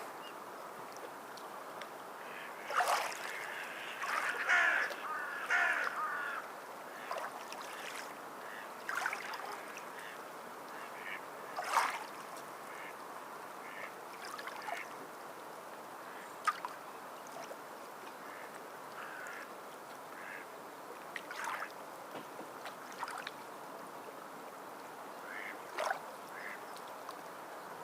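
Water birds calling over a steady wash of sea water: short, scattered calls at irregular intervals, the busiest cluster about three to six seconds in.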